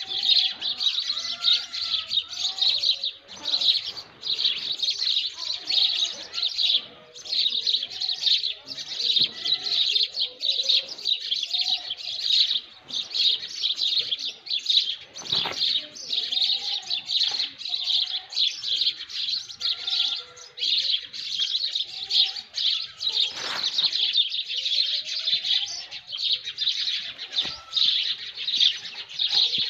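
Pre-dawn chorus of many birds: a dense, unbroken wash of high chirping, with lower whistled calls that slide up and down scattered through it.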